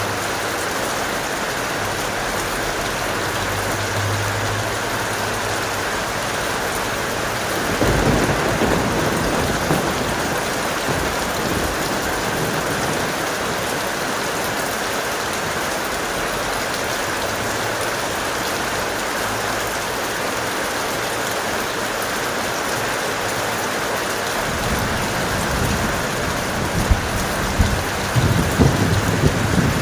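Heavy, steady rain with thunder rumbling twice: a low roll about eight seconds in, and a longer crackling rumble building over the last five seconds.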